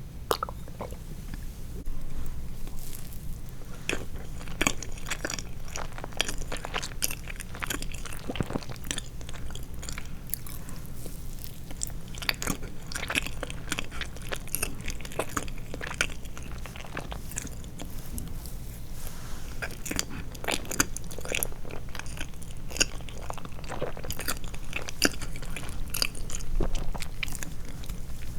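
A person chewing and biting soft sweets close to the microphone: a steady run of small mouth clicks and smacks.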